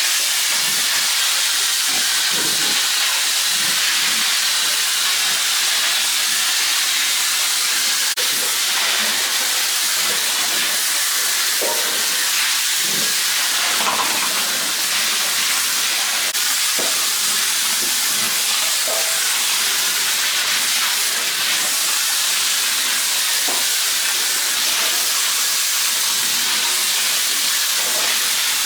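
A steady, even hiss, strongest in the high range, with faint scattered short low sounds beneath it.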